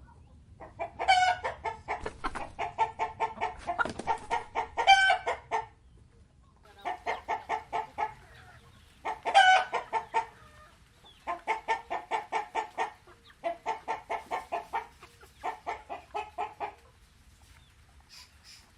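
Hen clucking in quick runs of short, rapid notes, several bouts in a row with brief pauses, and a few louder, higher squawks among them.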